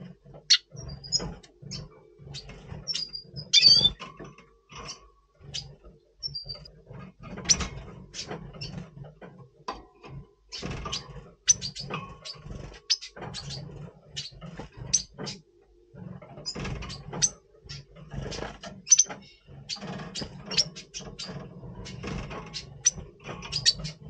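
Red siskins calling in short, high chirps, scattered irregularly, with many sharp clicks and taps in between.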